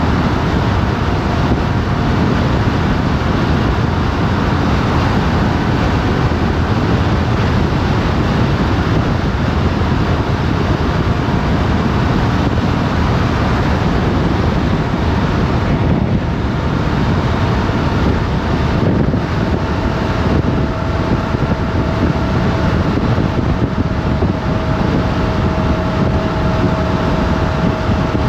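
Motorcycle riding at road speed, heard from an onboard camera: a steady rush of wind over the microphone with the engine running underneath. A faint steady engine tone becomes clearer in the second half.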